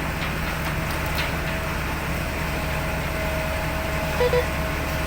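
Heavy diesel engine of road-paving equipment running steadily, with two short beeps close together about four seconds in.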